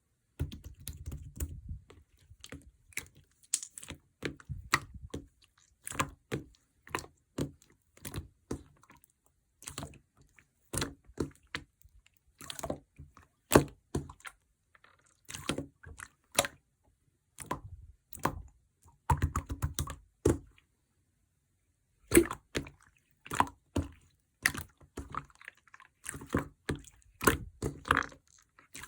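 Slime being pressed and stretched by hand, giving irregular clusters of sticky clicks and wet pops about once a second, with a short pause about twenty seconds in.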